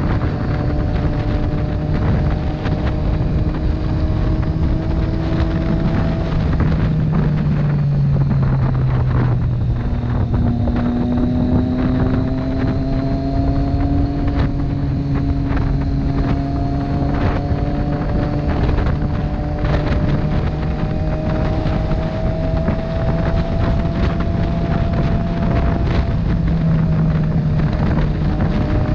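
Motorcycle engine running at road speed under heavy wind buffeting on the microphone. The engine note falls about seven seconds in, then picks up again and climbs from about ten seconds in as the bike accelerates.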